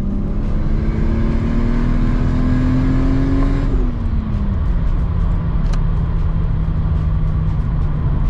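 Turbocharged Toyota 2JZ-GE inline-six in a Lexus IS300, heard from inside the cabin, pulling under boost with its note rising steadily. A little under four seconds in, the throttle closes: the note drops and settles into a steady lower drone as the car coasts on the overrun.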